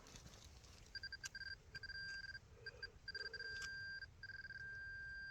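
Metal detector's electronic beep at one fixed pitch, coming as broken beeps from about a second in and settling into a steady held tone near the end as it is held over a buried metal target.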